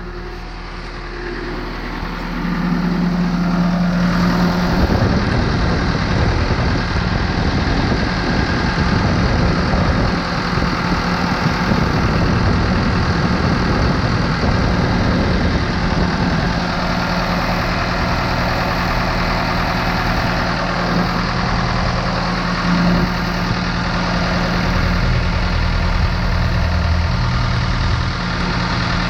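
Schwing SP 500 trailer concrete pump's engine getting louder a couple of seconds in as it comes up from idle, then running steadily at speed. The throttle cable is now held onto the throttle by a zip tie after its coupler popped loose.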